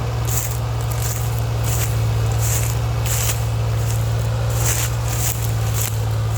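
New Holland 3630 tractor's diesel engine running at a steady speed, with short hissy sounds recurring about every half second over it.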